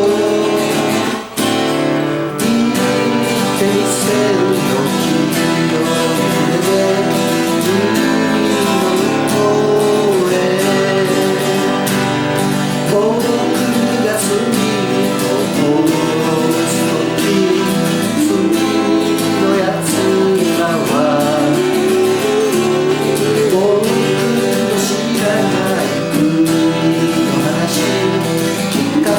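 Acoustic folk band music: strummed acoustic guitars carrying the song, with a melody line over the top and no sung lyrics.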